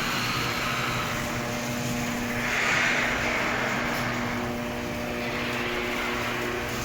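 Garage door opener running, moving the door along its track: a steady mechanical noise that swells about three seconds in and eases toward the end.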